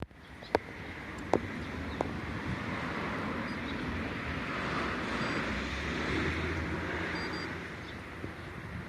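Honda Acty kei truck's small three-cylinder engine running steadily after being started by a remote engine starter, preceded by three sharp clicks in the first two seconds. A few faint short high beeps come over it.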